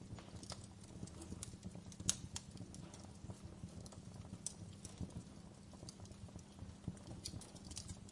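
Wood fire crackling: irregular sharp pops and snaps, the loudest about two seconds in, over a steady low rumble of the burning fire.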